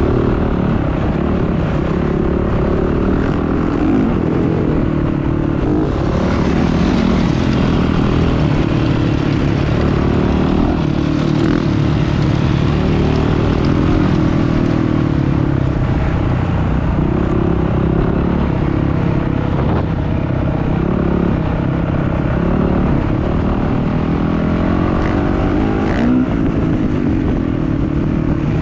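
Dirt bike engines running loud and continuously, their pitch rising and falling again and again as they rev and ease off.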